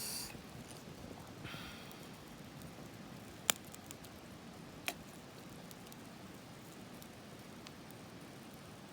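Quiet outdoor background with a brief rustle at the start and again a second and a half in, then two sharp clicks about a second and a half apart.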